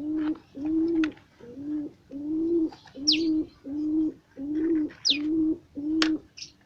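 A dove cooing in a steady series of low, even notes, about two a second, which stops near the end. Small birds add a few short, high chirps that sweep downward, about once a second.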